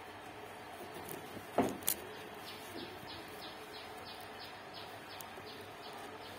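A short knock about one and a half seconds in, followed by a sharp high clink. Then a bird calls in the background with a run of short, high, falling chirps, about three a second.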